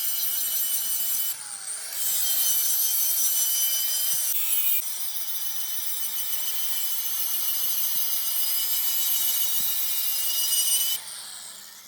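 A power tool grinding metal with a steady high-pitched whine, easing briefly about a second and a half in and stopping shortly before the end.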